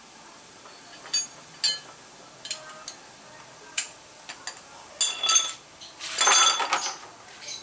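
Metal parts clinking as they are handled: a few separate ringing clinks, then a busier clatter about six seconds in, the loudest part.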